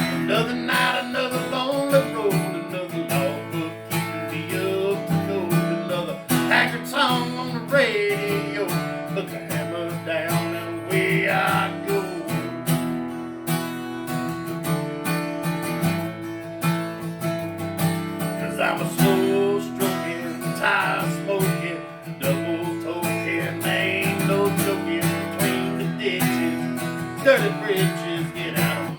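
Instrumental break in a country song on acoustic guitar: strummed chords with a picked melodic lead line running over them.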